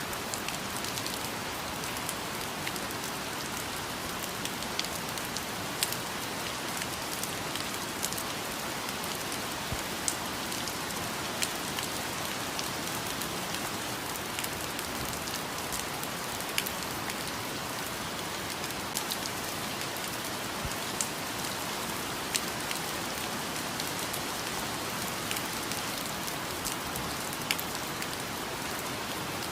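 Steady rainfall on forest foliage, an even hiss with scattered sharper drops landing throughout.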